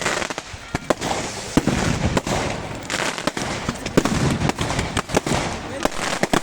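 Fireworks going off: an irregular run of sharp bangs and crackles, several in quick succession.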